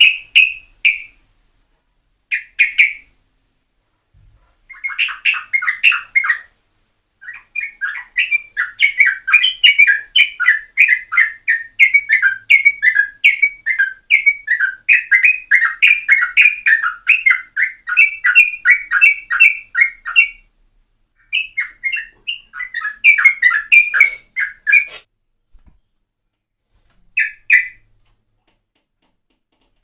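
Yellow-vented bulbul (trucukan) singing loudly: short bursts of bubbly, chattering notes, then a long run of rapid notes that lasts over ten seconds in the middle, followed by a few more short phrases with gaps between them.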